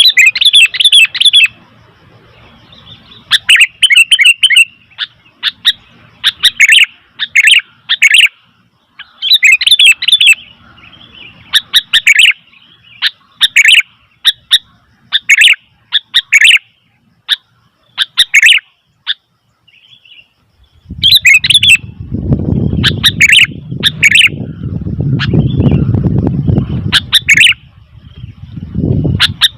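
Sooty-headed bulbul calling again and again in short bursts of sharp chirps. A low rumble joins in about two-thirds of the way through.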